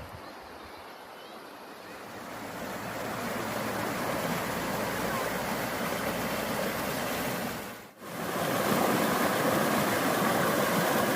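Rushing river water, a steady noise that swells over the first few seconds, drops out for a moment about eight seconds in, then comes back louder.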